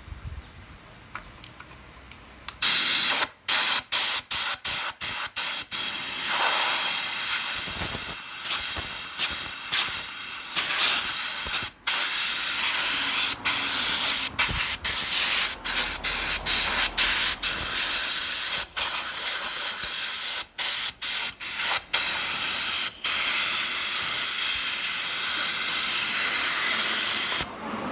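Loud pressurised spray hissing, starting about two and a half seconds in and let off and pressed again many times in quick succession before cutting off near the end.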